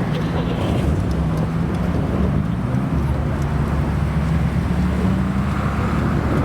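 A car's engine running at low revs as the car drives out past, with a deep low rumble that grows about three seconds in.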